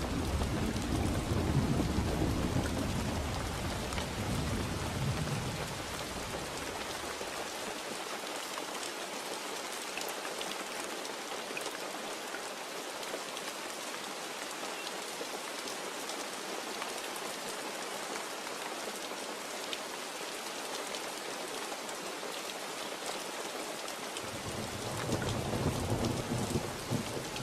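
Steady rain falling, an even hiss of drops, with a low rolling rumble of thunder at the start. The rumble dies away over the first several seconds and rolls in again near the end.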